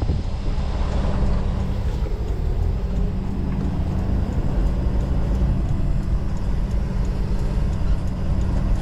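Semi-truck diesel engine running steadily, a constant low drone.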